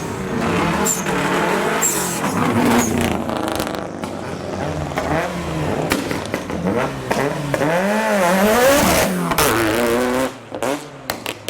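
A car's engine revving hard, its pitch rising and falling again and again as it is driven through handbrake turns. The engine sound drops away abruptly near the end.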